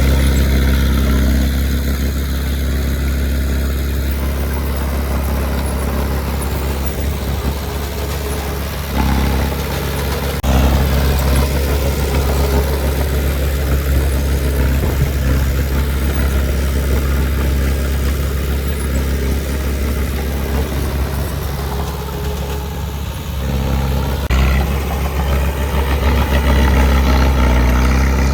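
Heavy earthmoving machine's diesel engine running steadily, its level dipping briefly and picking up again about ten seconds in and once more near the end as the load changes.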